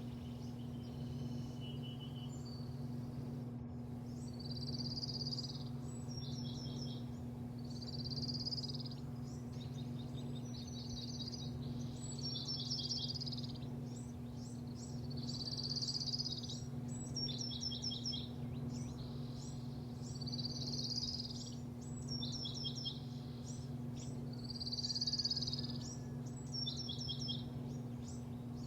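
A songbird singing the same short phrase over and over, about every four seconds: a buzzy note, then a quick run of short falling notes. It sings over a steady low machine hum.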